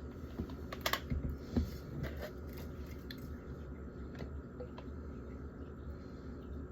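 A few light clicks and knocks from glass pasta-sauce jars and their lids being handled, in the first couple of seconds, then faint small ticks over a steady low hum.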